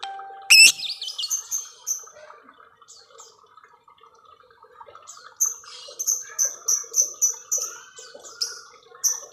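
Lovebirds calling: runs of short, sharp, high chirps at about three a second, with a louder harsh call about half a second in and a quieter stretch of softer chatter in the middle.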